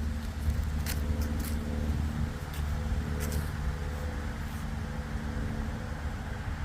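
350 cubic-inch V8 of a 1977 Pontiac Grand Prix idling steadily, with a few light clicks over it.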